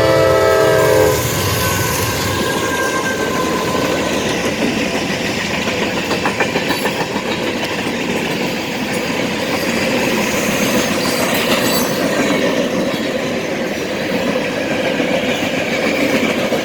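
A CSX freight train's multi-note air horn sounding and cutting off about a second in. The train then passes close by with a steady rumble and the rhythmic clickety-clack of wheels over rail joints.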